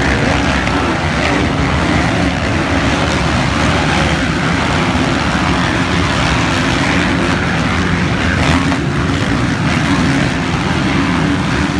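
Motocross dirt bike engines running, a steady loud mix of engine noise with no clear single rev.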